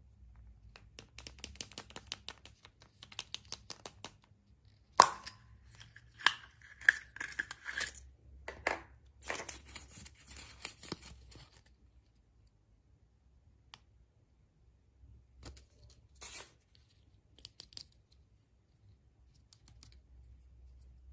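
Packaging being handled and torn open: quick crackles, a sharp knock about five seconds in, then several seconds of tearing and crinkling, dying down to a few faint handling sounds in the second half.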